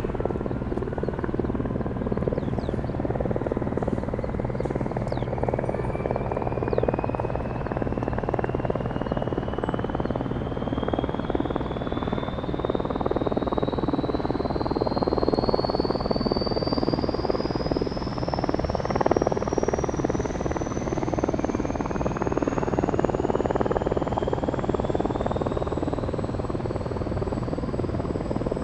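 Kaman K-MAX K-1200 helicopter's Honeywell T53 turboshaft engine starting up: a turbine whine rising steadily in pitch, joined by a second rising whine about halfway through, over a steady low hum and rumble.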